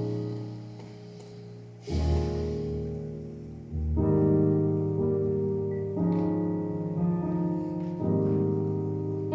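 Piano introduction: slow sustained chords, a new chord struck about every two seconds and left to ring.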